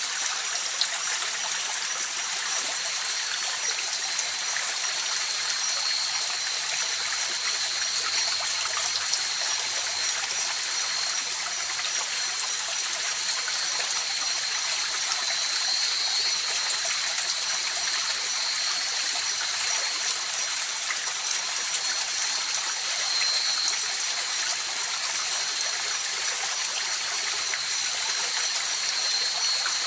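River water flowing steadily, an even rushing hiss, with two faint, constant high-pitched tones over it.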